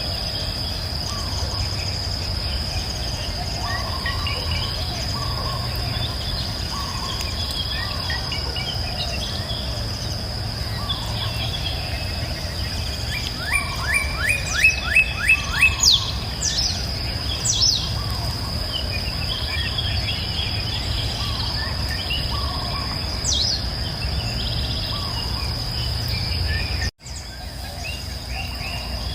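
Several songbirds calling and singing over a steady high insect drone and a low rushing background from the river. About halfway through, one bird gives a quick run of about seven loud, sharp falling notes. Near the end the whole sound cuts out for an instant and comes back.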